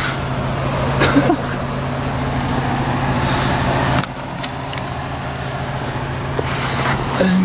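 A vehicle engine idling with a steady low hum. The level drops abruptly about four seconds in.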